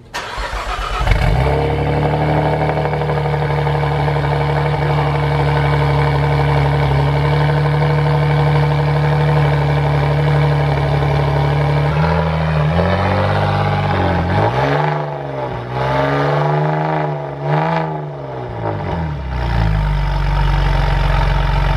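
Saab 9-3 Turbo X's turbocharged V6, almost straight-piped with a Krona downpipe and midpipe and a rear muffler delete, cranking and catching on its first start after the install, then idling steadily. About twelve seconds in it is revved in several short blips, and it settles back to idle near the end.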